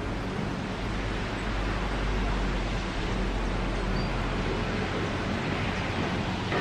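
Berner Oberland Bahn electric train rolling slowly in on a curve, heard as a steady low rumble under an even rushing noise, with no distinct wheel clicks or horn.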